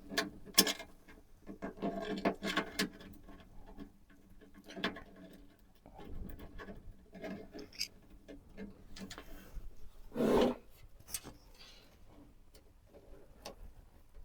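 Handling noise from building a PC by hand: scattered clicks and taps with stretches of rubbing and scraping, and one louder rub about ten seconds in.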